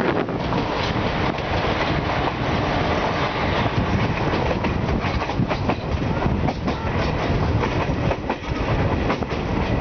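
Moving express train's coach running on rails, heard from a coach window: a steady rumble with the irregular clickety-clack of wheels over rail joints.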